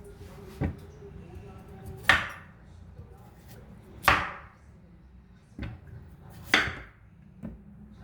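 A kitchen knife striking a wooden cutting board in a few separate chops while vegetables (onion and carrot) are cut. There are about six irregularly spaced knocks, three of them louder.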